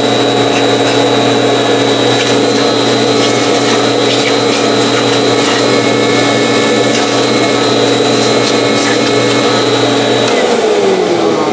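Motor of a restored 1952 Electrolux Model XXX canister vacuum running steadily with a high whine, then switched off about ten seconds in, its pitch falling as it winds down.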